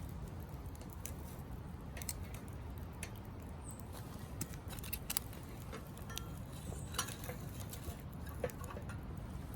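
Small wood-burning camp stove with wood burning in it: irregular sharp crackles and pops over a low steady rumble.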